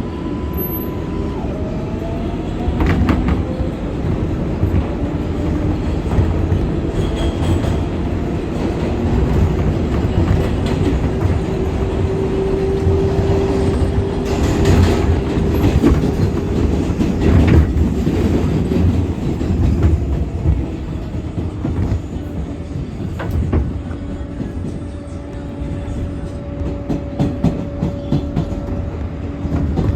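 R188 subway train running at speed: a steady rumble of wheels on rail with clicks over the rail joints and a steady motor whine.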